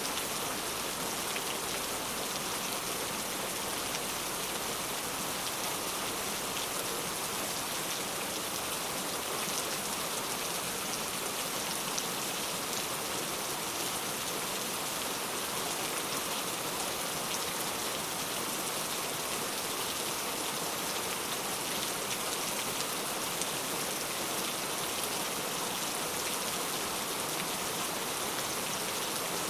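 Heavy rain falling steadily, a dense even hiss of drops with faint scattered ticks of individual drops on a surface.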